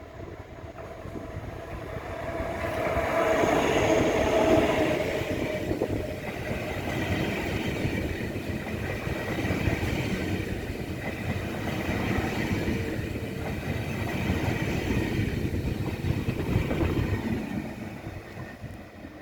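Deutsche Bahn ICE high-speed train moving through the station: its running noise grows louder over the first four seconds, holds steady, then fades near the end.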